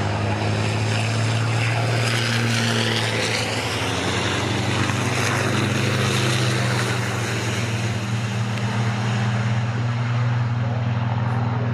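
Race trucks' heavy diesel engines running at speed on track, a steady low drone with a whine rising about two to three seconds in.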